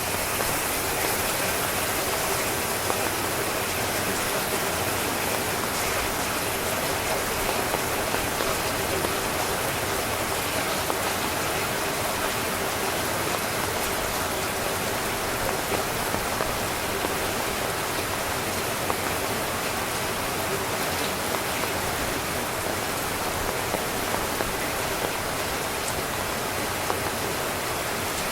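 Steady heavy rain pattering on a tent, a dense even hiss with scattered small drop ticks.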